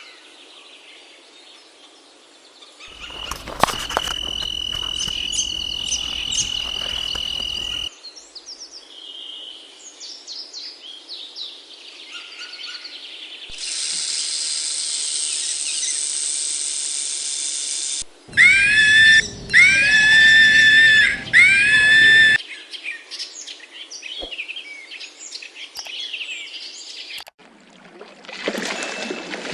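A string of short clips of bird calls and chirps, cut one after another. A little past the middle come four loud, evenly spaced calls, each rising and then falling.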